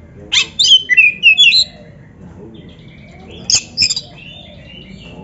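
Oriental magpie-robin (kacer) singing: a loud burst of rapid sweeping whistles and harsher notes begins about half a second in and lasts over a second, followed by a shorter burst about three and a half seconds in, with fainter twittering between.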